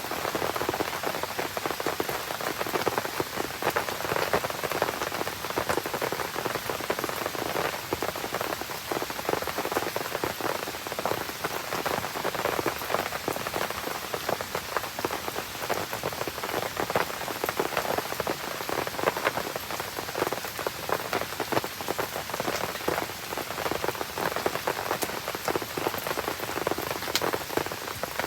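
Steady rain falling, a dense, even patter of many small drop impacts, with one sharper tick near the end.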